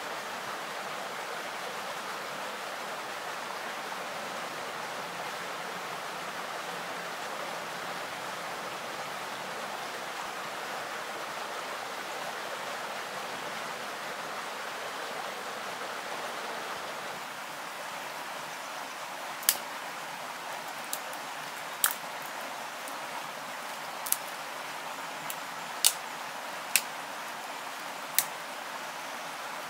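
Steady outdoor rushing noise, like running water or wind. About two-thirds of the way through, a run of about eight sharp clicks or snaps starts.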